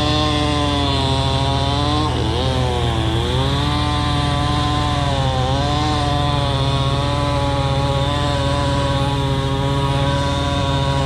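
Chainsaw running at high revs, its engine note dipping and recovering twice as it loads up in the cut.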